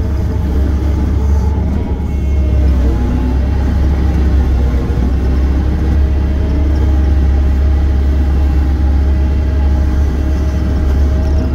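Diesel engine of a piece of earthmoving equipment running steadily under work, a loud continuous low drone.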